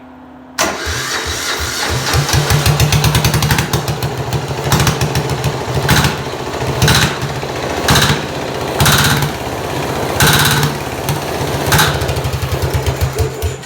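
Junior dragster's turbo diesel engine catching on starting fluid during a cold start and running roughly, with sharp knocks about once a second, then cutting out suddenly near the end: with no diesel in the tank it runs on ether alone and dies.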